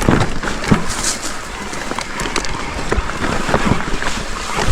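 Mountain bike rattling over rocks, with irregular knocks and clatters and wind rushing over the microphone.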